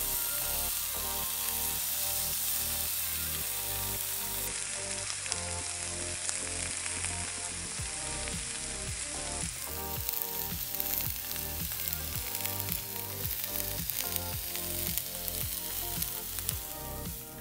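Paneer slabs sizzling on a lightly oiled nonstick grill pan, a steady frying hiss with small crackling pops that come more often in the second half.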